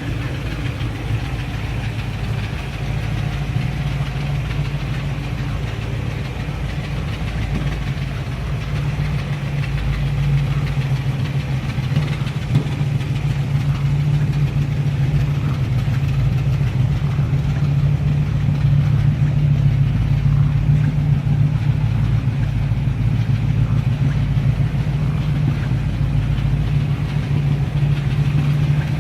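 1956 Chevrolet Corvette's V8 engine idling steadily, growing slightly louder about a third of the way through.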